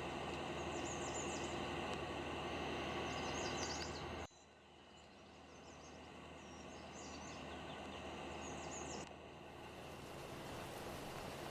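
Small birds chirping in short repeated bursts over a steady outdoor hum; the background changes abruptly about four seconds in and again near the end.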